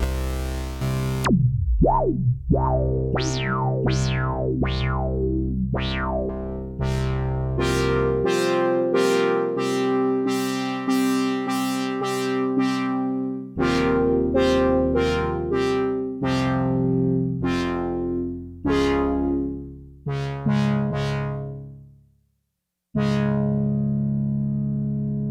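Sequential Prophet Rev2 analog polyphonic synthesizer playing a new patch: chords over a low bass. In the first few seconds several notes sweep quickly downward in pitch, followed by a run of repeated chords. The sound fades out to silence about 22 seconds in, then a fresh chord sounds and is held.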